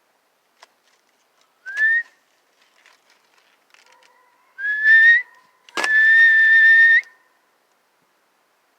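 A person whistling three rising notes to call birds: two short ones, then one held for about a second that flicks up at the end. A sharp click comes just as the last note starts.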